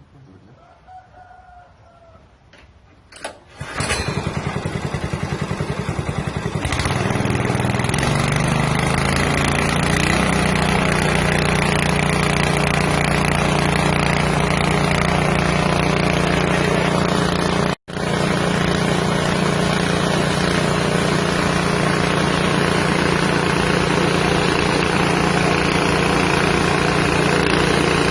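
Small single-cylinder engine of a rice-milling machine starting up about three and a half seconds in and settling into steady running with the huller. The sound cuts out for an instant near the middle.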